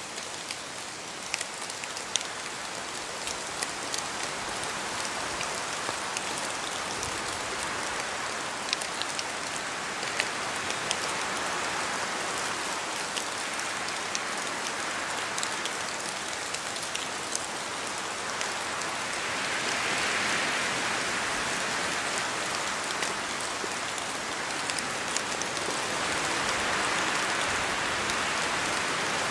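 Steady rain in a forest, an even hiss with scattered sharp taps of drops falling from the trees. The rush swells louder twice in the second half.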